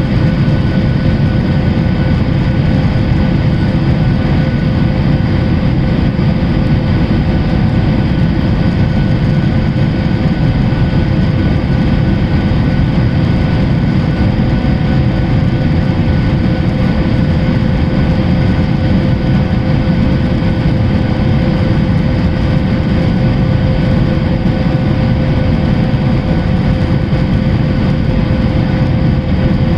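Boeing 737-800's CFM56-7B turbofans and airflow: a steady, loud, low drone with a constant hum on top.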